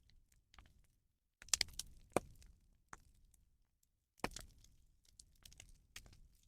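Irregular sharp cracks and pops from a rubbish bonfire crackling as it burns, louder cracks about one and a half, two and four seconds in.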